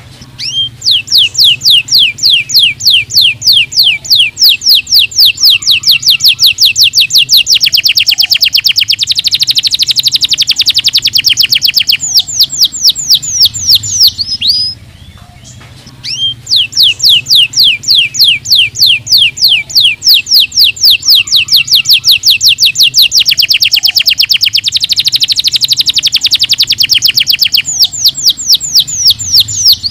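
Domestic canary singing in two long song phrases, each about fourteen seconds, with a short pause about halfway. Each phrase is a run of rapid, repeated high downward-sweeping notes that quickens into a faster, denser trill in its middle.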